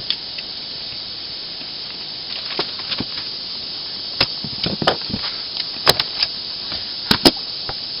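Scattered sharp clicks and knocks of hand tools and small metal parts as a DeWalt D51256K nail gun is taken apart, in sped-up footage, over a steady hiss. The clicks come sparsely at first and grow more frequent from about four seconds in.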